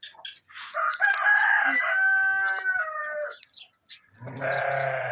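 A rooster crowing once, a long drawn-out crow of about two and a half seconds. Near the end a goat starts bleating.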